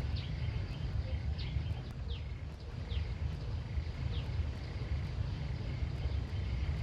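Rural outdoor ambience: a steady low rumble with several short, quickly falling high chirps from birds, about one a second through the middle.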